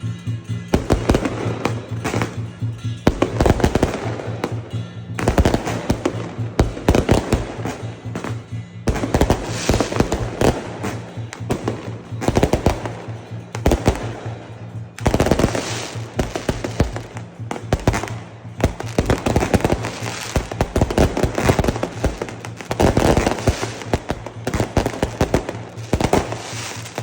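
Fireworks and firecrackers going off in dense, rapid crackling volleys that barely pause, with a steady low hum underneath.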